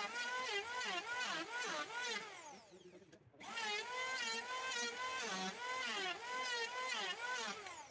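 A handheld power tool's motor whining as it cuts into an old oak beam, its pitch dipping and recovering about twice a second as it bites. The sound stops for a moment about three seconds in.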